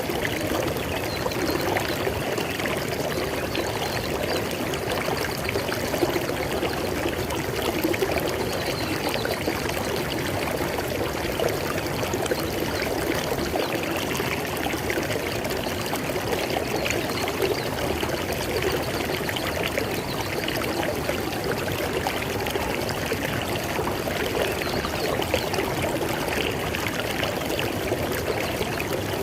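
River water flowing and splashing steadily over rocks in a continuous, even rush.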